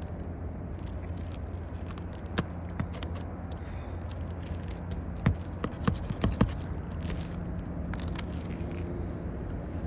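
Hammer tapping roofing nails into an asphalt shingle: one sharp strike, then a quick run of five or six strikes, over a steady low hum.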